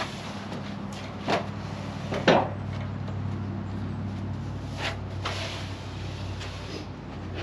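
Freshly sawn wooden boards knocking and clattering against one another as they are handled, with a few sharp knocks, the loudest a little over two seconds in. Under them runs the steady hum of an idling engine.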